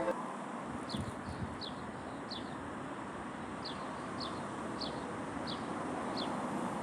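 A bird repeating a short, high, falling chirp about every two-thirds of a second, with one longer pause, over a steady outdoor hiss.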